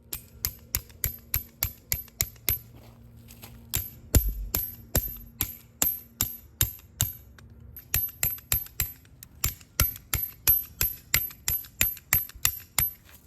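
Rapid runs of sharp metallic taps, about four a second, each with a brief high ring, pausing briefly a few times.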